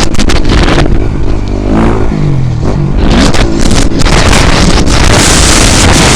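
400cc motocross bike's engine revving hard, the revs rising and falling as the rider works the throttle, with a clear drop about two seconds in. Heavy wind noise on the microphone grows stronger near the end.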